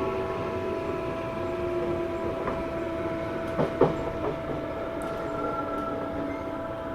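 Tobu 9000 series electric train with armature chopper control running, heard from on board: a steady electrical whine from the chopper and traction motor over rail noise, with two sharp clacks about three and a half seconds in. This car made an unusual motor sound, which the recordist took for a different motor fitted on trial.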